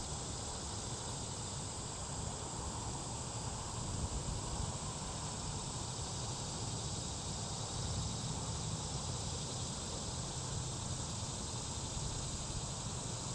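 Steady chorus of insects, a constant high-pitched trill, over a low steady rumble.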